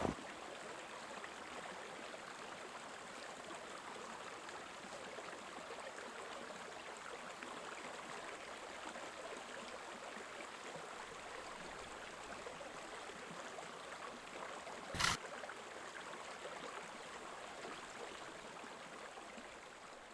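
Creek water running steadily, with a single sharp click about fifteen seconds in.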